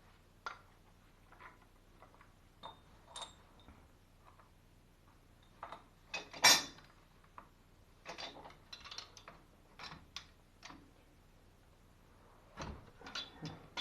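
Scattered metallic clicks and knocks of plumbing fittings and tools being handled during a ball-valve installation, with one sharper knock about halfway through and a run of quicker clicks just after.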